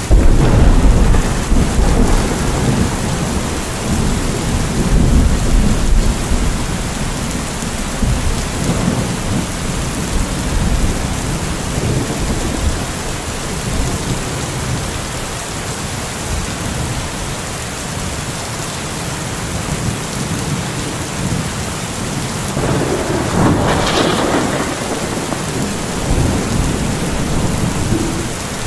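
Thunderstorm: steady rain, with thunder rumbling low and loud over the first several seconds. A second, sharper peal of thunder comes near the end.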